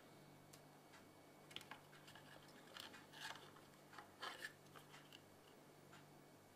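Near silence over a low steady hum, with a scatter of faint clicks and scratches through the middle.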